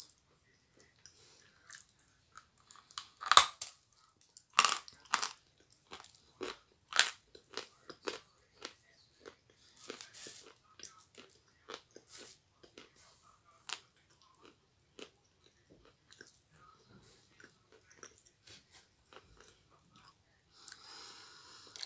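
Close-up crunching and chewing of a dry, brittle chunk of edible chalk: a run of sharp, separate crunches, loudest in the first several seconds, then softer chewing.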